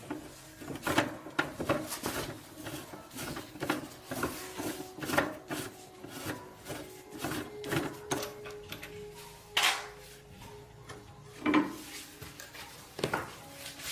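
Irregular knocks, clinks and clatter of tools and parts being handled while a motorbike is worked on, with a faint steady hum underneath.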